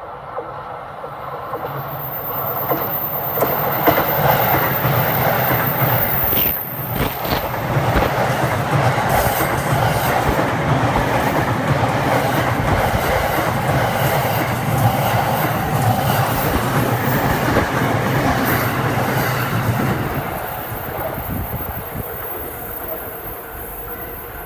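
A 15-car E233-series and E231-series electric commuter train passing a level crossing, its wheels clattering over the rail joints. It builds up over the first couple of seconds, stays loud for about eighteen seconds, then fades away near the end.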